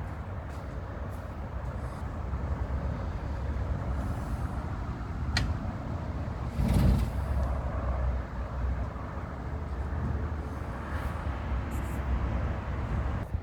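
A motor vehicle's engine running steadily with a low rumble. A sharp click comes about five seconds in and a thump at about seven seconds.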